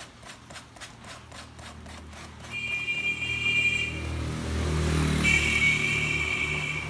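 Rhythmic scraping of a motorbike inner tube being sanded by hand, about four strokes a second. Then a vehicle engine passes close by, growing louder, and a horn sounds twice, the second blast the longer.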